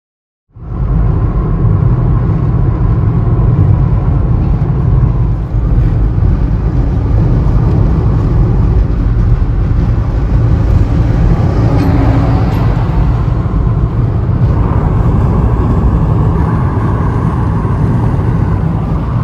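Jet airliner engines and airframe noise: a loud, steady rumble that cuts in abruptly about half a second in.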